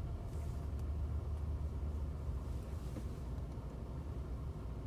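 Low, steady rumble of a 2017 Ford F-150's twin-turbo 3.5-litre EcoBoost V6 idling, heard from inside the cab as the truck reverses slowly.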